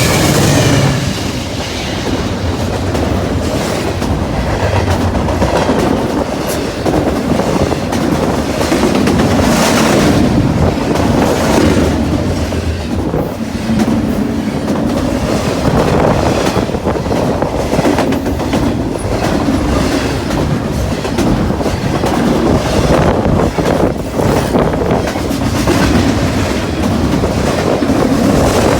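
CN freight train, led by diesel locomotives and made up of intermodal cars, passing at speed, its wheels clattering steadily over the rails. The locomotive horn's last note cuts off about half a second in.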